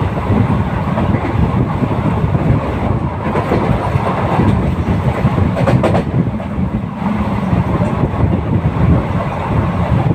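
Moving train running on the rails: a steady rumble of wheels and carriages, with a brief cluster of sharper clicks about six seconds in.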